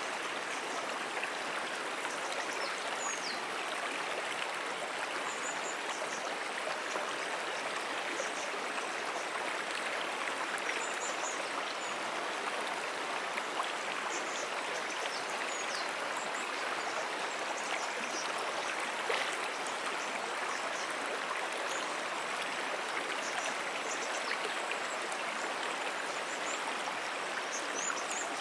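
A brook's water running steadily, an even rushing flow, with faint high chirps scattered over it now and then.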